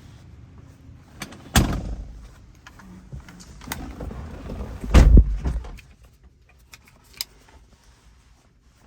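A car door being handled and shut: a clunk about a second and a half in, then a heavier thump about five seconds in, followed by a few light clicks and rattles.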